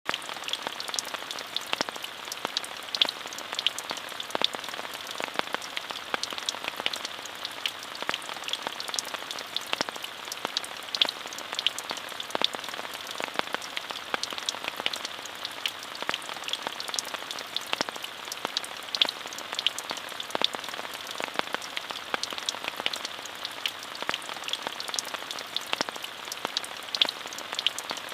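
Steady rain falling, an even hiss with many close, sharp drop taps scattered through it.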